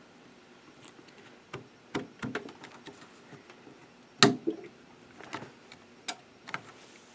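Plastic parts of a 3D printer's display being handled and clipped into place: scattered clicks and taps, with one loud sharp snap about four seconds in.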